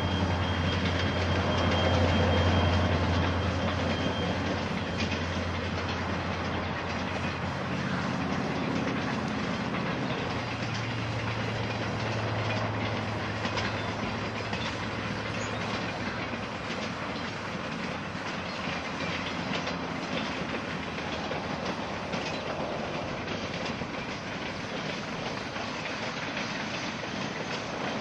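Diesel freight train passing. The locomotives' engine drone is loudest in the first few seconds, then the cars roll by with a steady rumble of wheels on rail and frequent clicks over the rail joints.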